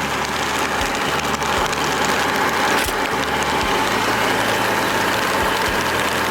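Heavy vehicle engine running steadily at a low idle, a continuous mechanical hum.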